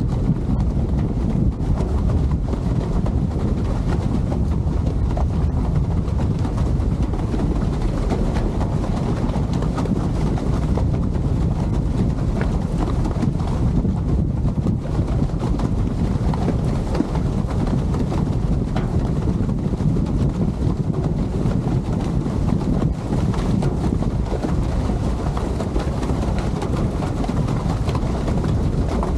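Steady wind rushing over the microphone on a boat under way, a constant low rumble with no break.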